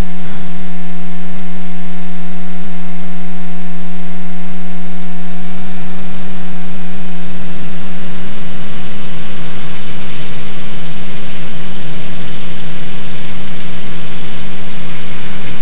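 Cessna 185 Skywagon's six-cylinder piston engine and propeller running steadily at low power, heard from inside the cabin as one unchanging low hum with overtones, with more rushing noise in the second half.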